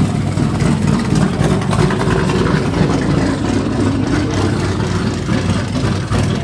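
Bored-out Chevy 350 small-block V8 with a mild RV cam, idling steadily.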